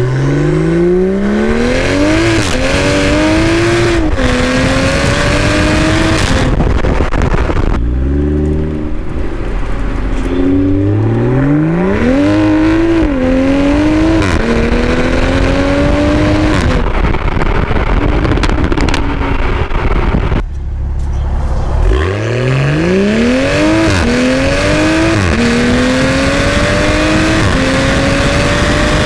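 2021 Toyota GR Supra with a Powerneedy catted aftermarket downpipe, accelerating hard three times. Each time the exhaust note climbs in pitch, drops at each upshift and climbs again, then falls away as the car eases off.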